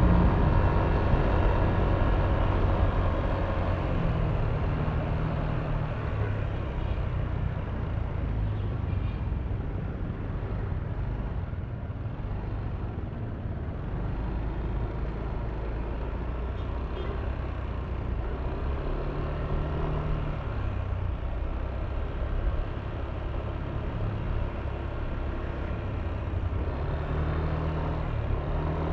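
Yamaha Aerox V3 scooter's 155 cc single-cylinder engine running under way in city traffic, its pitch rising briefly with the throttle about two-thirds through and again near the end. Wind noise and surrounding traffic mix in.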